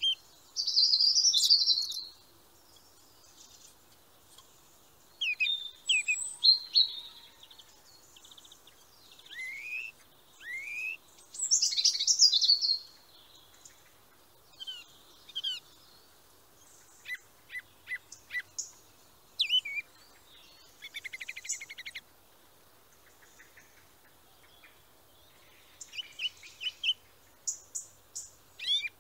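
Songbirds calling and singing: a varied mix of high chirps, short rising whistles and trills, coming in bursts with brief gaps.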